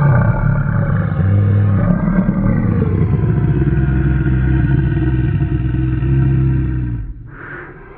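A low, rough, monster-like growl, held for about seven seconds before it cuts off.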